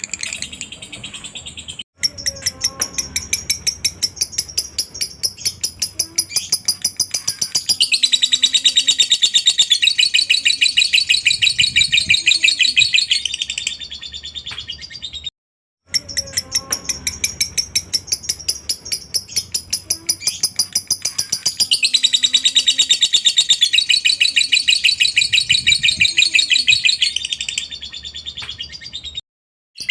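Lovebird singing its long 'ngekek' chatter: a rapid, high-pitched chattering trill that swells louder partway through. The passage loops about every 14 seconds, each time after a brief gap of silence.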